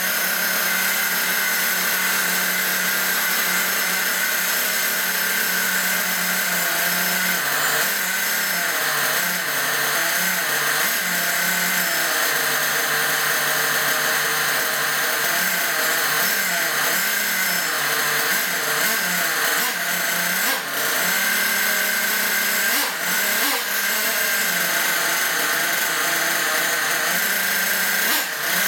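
Small nitro engine of a Hong Nor X1CR 1/8-scale RC buggy running steadily at high revs on its first start, being run in. A few brief dips in revs come in the last third.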